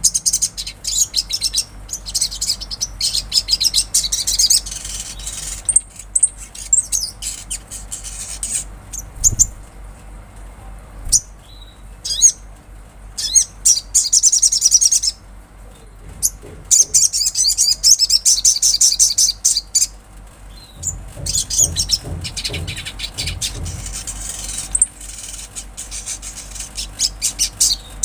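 Sogon (little spiderhunter) singing: bouts of rapid, high-pitched trilling chatter a few seconds long, broken by short pauses.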